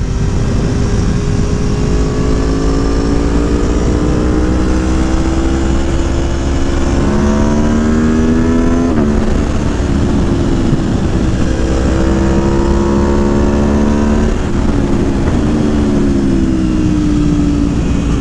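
Gabro Racing Stage 3 tuned Aprilia Tuono V4 engine pulling under acceleration on a moving motorcycle, its pitch climbing slowly, dropping sharply about nine seconds in, climbing again and then falling away as it slows. Heavy wind rumble runs under it.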